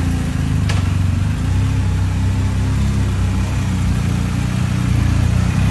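BMW motorcycle's engine running at low, steady revs, a little louder near the end, with a short click about a second in.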